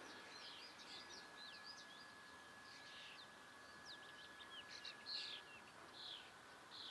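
Faint birdsong: many small birds chirping and twittering in short rising and falling notes, with a faint steady high tone underneath that stops near the end.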